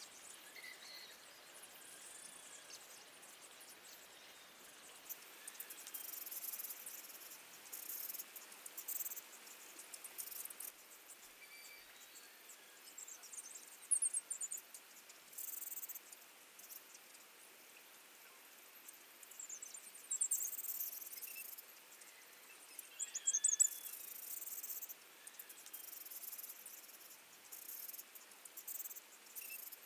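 Insects chirping in repeated high-pitched bursts and short trills, each about a second long, over a faint steady hiss.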